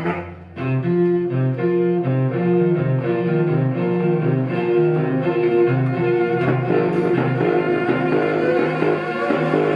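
Instrumental music from a small live ensemble: after a brief hush just after the start, low sustained string notes play a repeating figure, and the texture changes about two-thirds of the way through.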